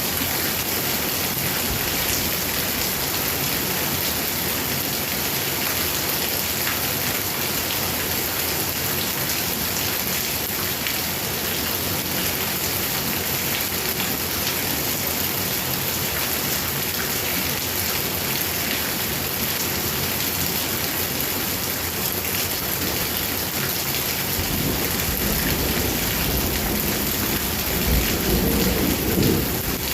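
Heavy rain pouring steadily onto surfaces. A deep rumble of thunder builds in the last few seconds and is loudest just before the end.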